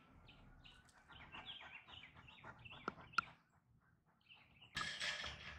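Small birds chirping faintly in quick runs of short notes, with a couple of sharp clicks about three seconds in and a short burst of rustling near the end.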